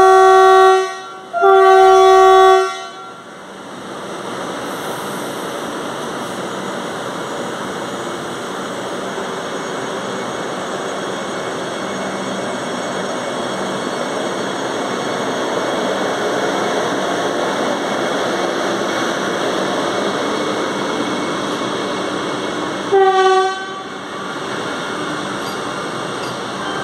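Vande Bharat Express electric train set sounding its horn in two loud blasts, then running along the platform with a steady noise of wheels on rails. One more short horn blast comes about 23 seconds in.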